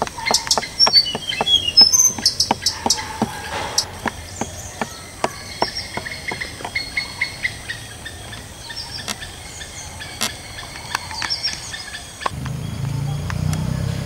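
Birds chirping in short high calls, most busily in the first few seconds, over a string of sharp ticks several a second. A low steady hum starts near the end.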